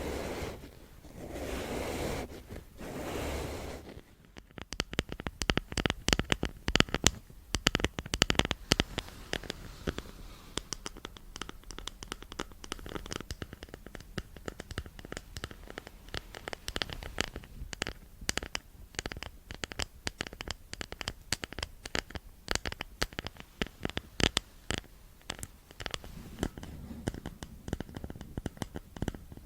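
Close-miked ASMR scratching: dense, irregular scratches and crisp clicks. Three soft whooshing swells come before it in the first four seconds.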